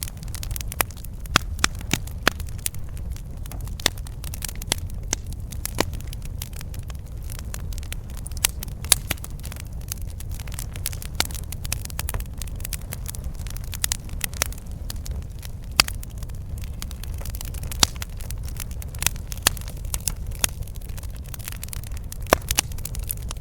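Campfire burning: wood crackling and popping in frequent, irregular sharp snaps over a steady low rumble of the flames.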